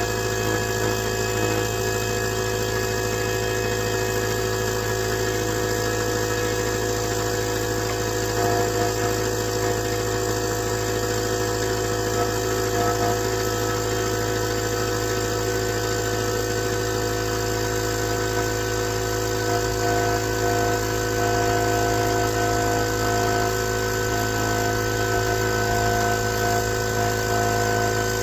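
A steady mechanical hum, like a small motor or engine running at constant speed, holding an even pitch throughout with a faint higher tone coming and going in the second half.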